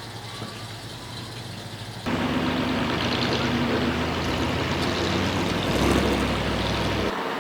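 Heavy truck engine, likely the ZIL-137B's, running: low at first, then abruptly much louder about two seconds in, swelling briefly near six seconds, and dropping off abruptly just before the end.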